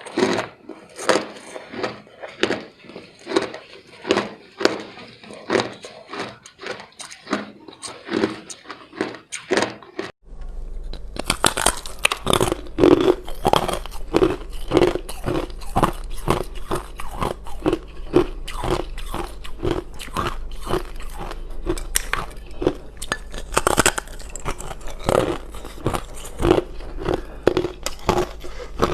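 Ice being bitten and chewed: loud, rapid crunching, several crunches a second. About ten seconds in, a steady low hum joins and the crunching becomes denser.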